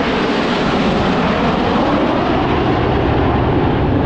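Loud, steady roar of military jet engines from a low pass overhead.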